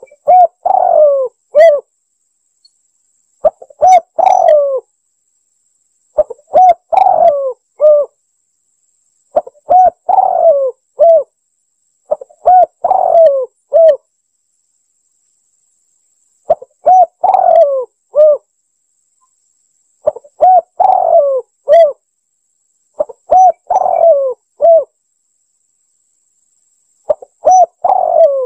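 Spotted dove cooing: a short phrase of several hooting notes, repeated about every three seconds with dead silence between phrases.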